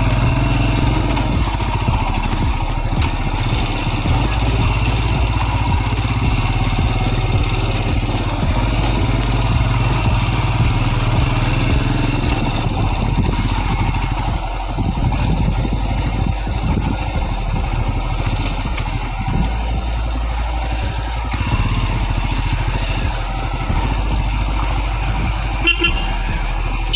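Motorcycle engine running steadily as the bike is ridden, a continuous low drone.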